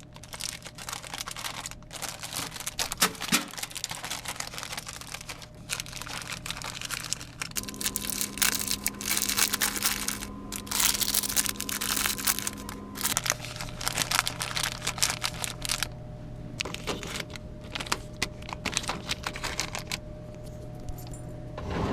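Crinkling, rustling and many quick clicks of things being handled over a steady electrical hum. The hum changes to a different set of tones for about five seconds in the middle.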